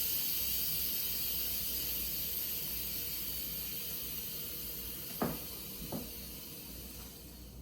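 Instant Pot pressure cooker venting steam through its release valve: a steady hiss that slowly dies away as the pressure drops. Two light knocks sound about five and six seconds in.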